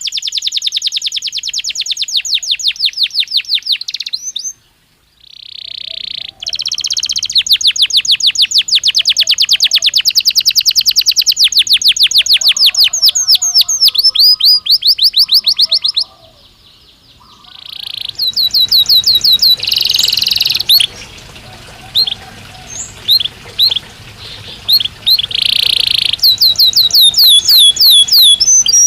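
Belgian canary singing: long rolling trills of fast, evenly repeated high notes, broken by two short pauses. In the last third the song turns more varied, with shorter trills, a couple of buzzy notes and scattered chirps.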